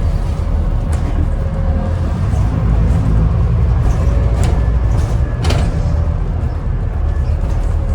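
Scania N250UD double-decker bus heard from inside while under way: steady heavy rumble of engine and road with a faint steady whine, and a few sharp knocks or rattles, about a second in and twice more around the middle.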